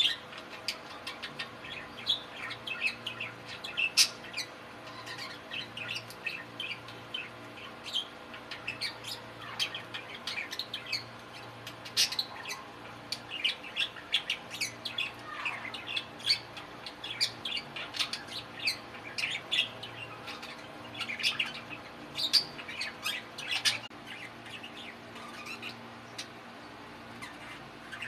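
Male budgerigars chattering and warbling: a continuous, busy stream of short chirps, clicks and squawks.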